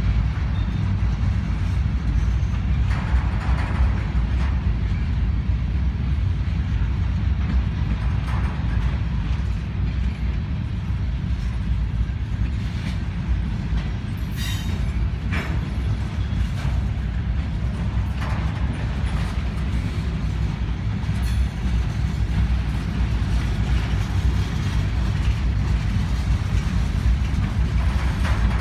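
Freight train of covered hopper cars rolling past at close range: a steady rumble of steel wheels on the rails, with a few brief sharp metallic sounds near the middle.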